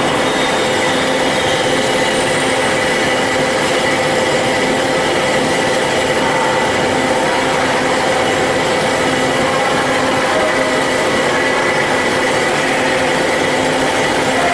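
Band saw running steadily, a constant machine whine with several steady tones and no change in pitch.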